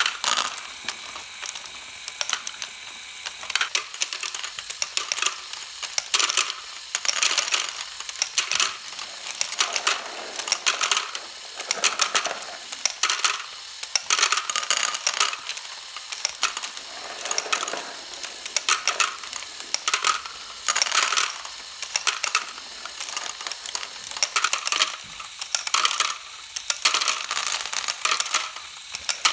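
LEGO Great Ball Contraption module running: a motor-driven conveyor of plastic Technic engine block pieces lifting small plastic balls, which clack and rattle against the plastic parts. Clusters of sharp clicks and clatter come about once a second.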